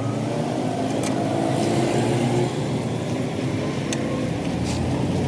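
An engine running steadily at an even pitch, with a few short sharp clicks or taps.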